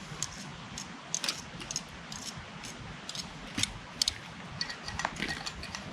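Irregular light clicks, clinks and rustles of gear and rubbish being handled and packed away.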